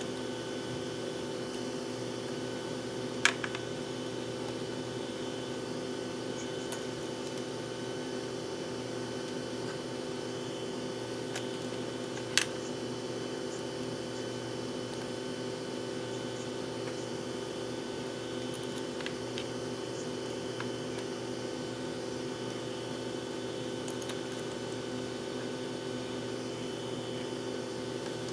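Steady mechanical hum of a room appliance such as a fan. Two sharp clicks, about three seconds and twelve seconds in, and a few faint ticks come from small tools being handled while the RC car's steering turnbuckles are adjusted.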